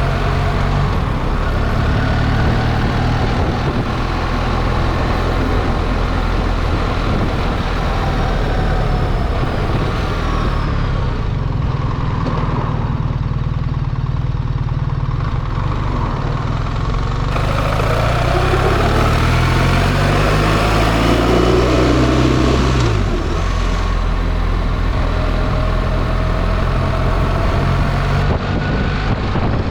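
BMW R 1300 GS boxer-twin engine running under way, with wind and road noise. About 18 seconds in the engine note climbs as the bike accelerates, then drops suddenly near 23 seconds as the throttle is eased or a gear is changed.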